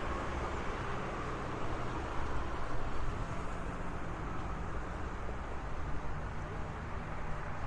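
Road traffic noise: a steady wash of car engines and tyres, swelling slightly as a vehicle passes about two to three seconds in.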